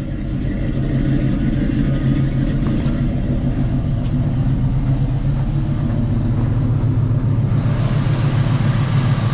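Car engine idling steadily just after being started. A rushing hiss joins it about three-quarters of the way through.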